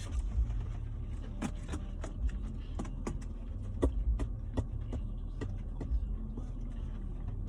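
Steady low rumble inside a car's cabin, with a dozen or so short, sharp clicks or taps at irregular moments.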